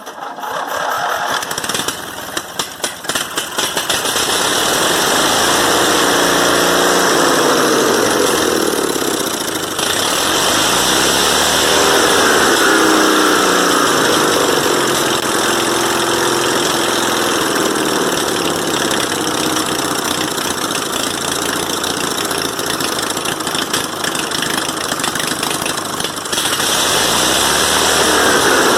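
A 20 hp opposed-twin mower engine being cranked, catching unevenly over the first few seconds, then running with its speed rising and falling. It spits and sputters because not everything is hooked up yet.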